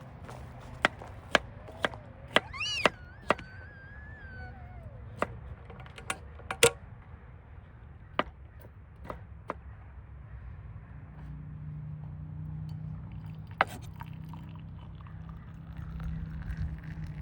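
Food preparation with a utensil: a run of sharp knocks about two a second, then scattered single knocks, as of a knife chopping on a board.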